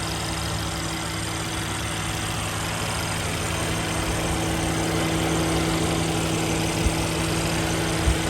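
A 2020 Mercedes-Benz E450 wagon's engine idling steadily, with two brief knocks near the end.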